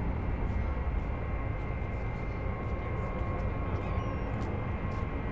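Jet airliner engine noise, a steady low sound that holds even throughout.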